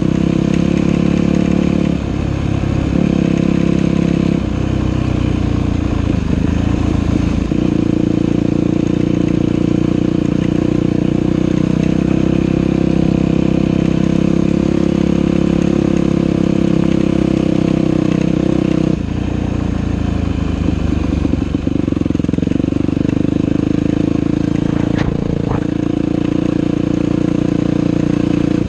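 Dirt bike engine running while the bike is ridden along a trail, the throttle easing off and picking up again several times.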